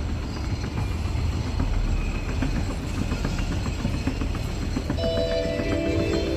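Steady low rumble of a moving vehicle or busy hall. About five seconds in, a public-address chime starts: several held tones at once.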